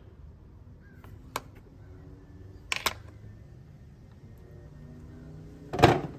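Subaru WRX engine idling faintly in the background, with sharp clicks about one and a half and three seconds in and a louder knock near the end.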